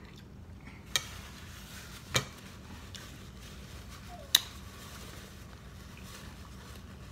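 Close-up eating sounds: a person chewing a mouthful of smoked turkey tail, with three sharp clicks about a second or two apart, the middle one fuller.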